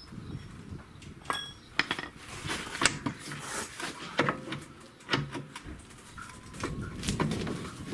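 Metal hand tools clinking and knocking against the car's steel suspension parts: irregular single strikes, some leaving a short metallic ring.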